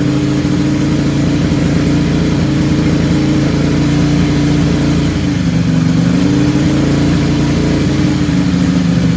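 Ducati Scrambler 800's air-cooled L-twin, through a headerback exhaust with a dB killer fitted, held steadily at about 3,000 rpm, with its pitch wavering only slightly. At this engine speed it reads under about 98 decibels.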